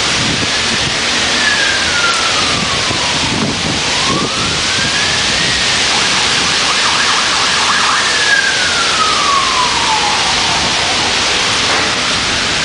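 Windstorm with rain making a loud, steady rush. Over it, a fainter siren wails slowly up and down in pitch: it rises, falls, rises again, holds high for a couple of seconds, then falls away near the end.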